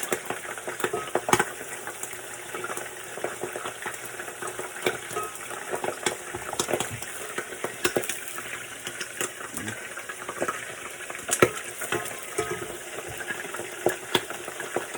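Poultry frying in hot grease: a steady sizzle with frequent sharp pops and crackles of spitting fat, a few of them much louder.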